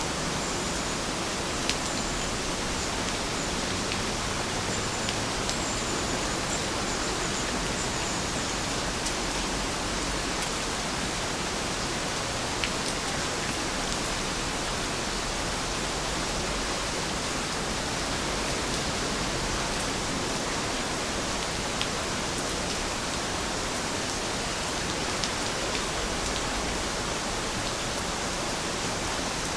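Heavy rain falling steadily: an even hiss with a few sharp drop ticks scattered through it.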